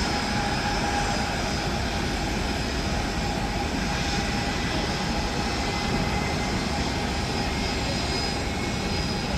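Jet airliner's engines running steadily: a constant rumble with a faint steady whine over it.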